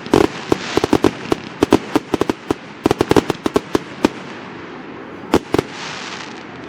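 Aerial fireworks going off in a rapid volley of sharp bangs, dense for the first four seconds and then thinning. Near the end come two loud bangs and a spell of crackling hiss from the bursting shells.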